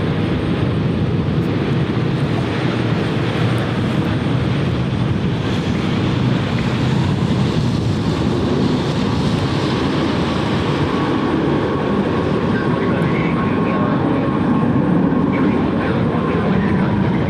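Jet airliner engines running: a steady, loud rush of jet noise with a faint whine in the second half.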